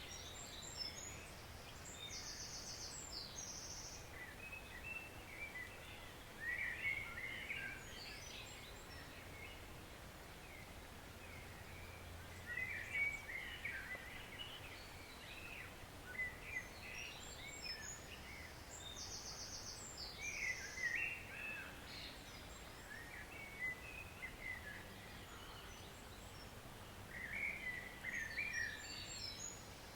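Woodland stream flowing with a steady hiss while songbirds sing over it in scattered chirps; one bird repeats a short song that ends in a fast, high trill three times, near the start, in the middle and at the end.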